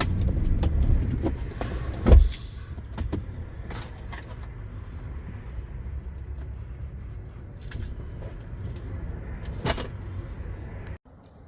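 MAN TGX 520 truck's diesel engine running, heard from the cab. About two seconds in there is a sharp thump and a short hiss, after which the engine sound falls to a lower, steadier level, with a few light clicks and rattles.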